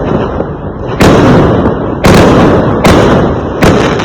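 Fireworks exploding: four sharp bangs roughly a second apart, each followed by a rolling rumble that fades before the next one.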